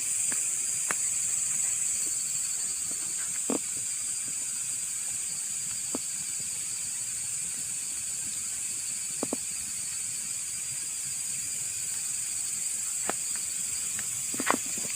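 Bonfire with sparse sharp pops and crackles, a few seconds apart, over a steady high-pitched hiss.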